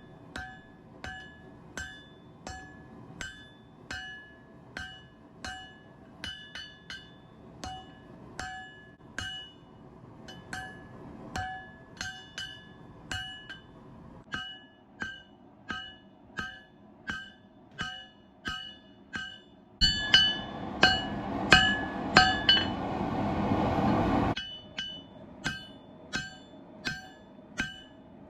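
A 4-pound blacksmith hammer striking hot Damascus billet steel on an anvil in a steady rhythm of a little under two blows a second, each blow ringing with a bright metallic tone. From about 20 to 24 seconds in, a loud rushing noise comes in, and the blows there are louder, before it cuts off.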